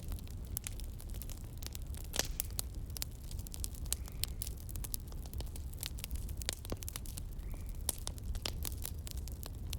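Campfire burning with irregular sharp crackles and pops, several a second, over a steady low rumble.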